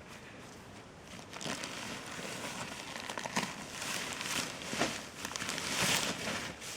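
Tent fabric and its carry bag rustling and crinkling as the tent's contents are pulled out, with scattered small knocks, loudest about a second before the end.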